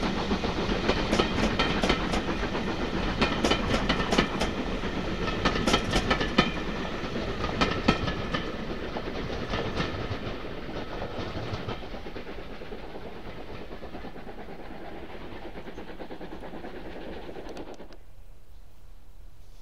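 Passenger coaches of a steam-hauled train rolling past, their wheels clicking over the rail joints. The sound fades as the last coach goes by, about ten seconds in, and drops away sharply near the end.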